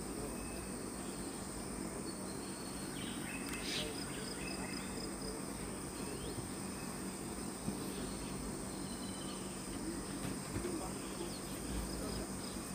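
Forest insects shrilling in a steady high drone, with a second, pulsing chirp underneath it.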